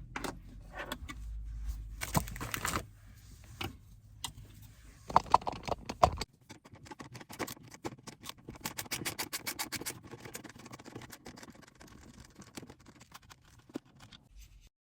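Handling noises from work on a car's center console trim: irregular clicks, knocks and rattles of hard parts being moved and worked, with a quick run of clicks near the middle.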